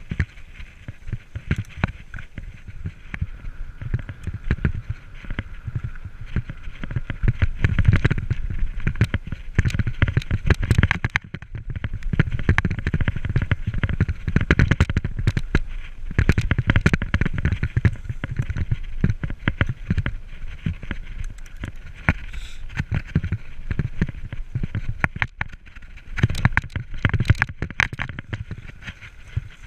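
Mountain bike riding over a rough trail: a constant clatter of knocks and rattles from the bike, with low wind buffeting on the microphone that rises and falls.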